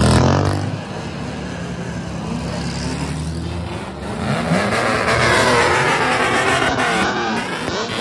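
Modified kaido racer car engines running with a low note, then revved up and down repeatedly from about four seconds in, several pitches climbing and falling over one another.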